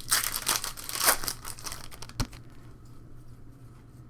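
Trading card pack wrapper being torn open and crinkled, a dense crackle lasting about a second and a half, followed by a single short knock.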